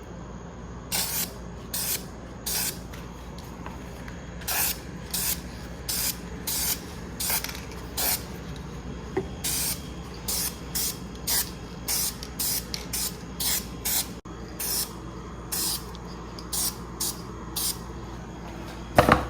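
Aerosol can of Krylon frosted-glass spray paint being sprayed in about two dozen short hissing bursts, roughly one a second or faster, frosting a glass light globe. A louder short knock comes near the end.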